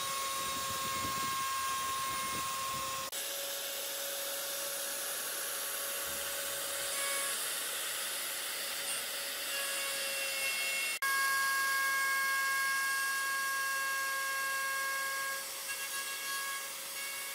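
Electric power tool running steadily against wood: a whine over a dense hiss. The sound changes abruptly twice, about three seconds in and again about eleven seconds in.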